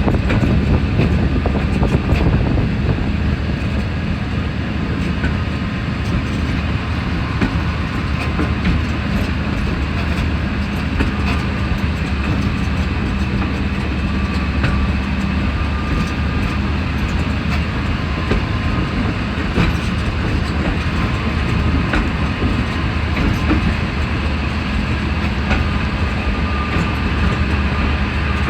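Sentinel 0-4-0 diesel shunter running steadily on its Rolls-Royce C Range eight-cylinder supercharged diesel engine, with a steady engine drone and occasional clicks of wheels over the rails.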